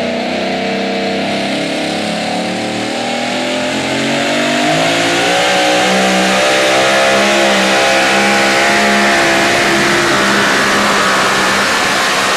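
Two-wheel-drive pulling truck's engine running hard under load during a pull, a steady strong note that wavers slightly in pitch. It grows louder about four to five seconds in.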